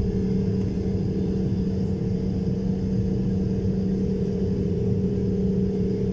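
Steady engine drone: a low rumble under a constant two-note hum, with no change in pitch or level.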